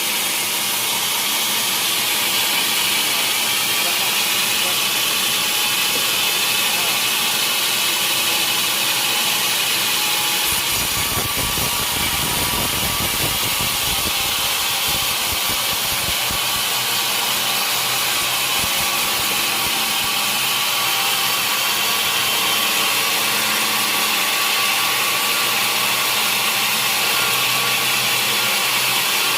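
Sawmill saw cutting steadily through a large mahogany log, a continuous high-pitched noise at an even level.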